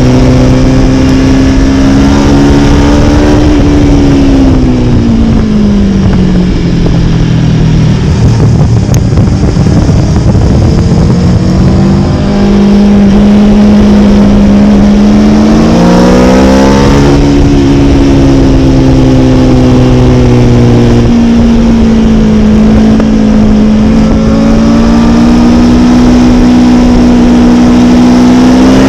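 Motorcycle engine running hard at speed under heavy wind rush. Its pitch falls over a few seconds as the bike slows, holds lower, then climbs again just past the middle as it accelerates and keeps pulling.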